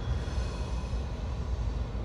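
Freight train rolling by: a steady low rumble of wheels on the rails, with faint thin high tones in the first second.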